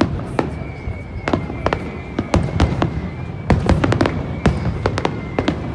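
Fireworks going off: a rapid, irregular string of sharp bangs and crackles, thickest about halfway through.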